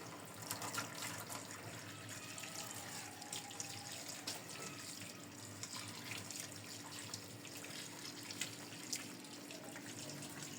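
Tap water running steadily into a sink while dishes are washed, with scattered light clinks.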